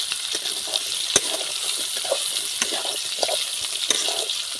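Potato chunks sizzling in hot oil in an iron kadai, stirred with a spatula that scrapes and knocks against the pan, with one sharp knock about a second in.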